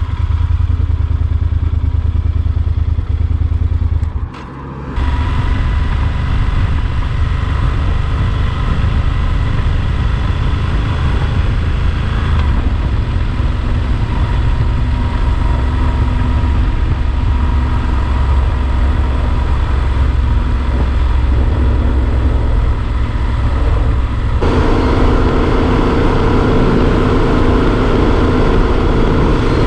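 Yamaha Super Ténéré XT1200 parallel-twin motorcycle running steadily on the road, engine and road noise together. The sound briefly drops away about four seconds in, and near the end takes on a higher, steadier note.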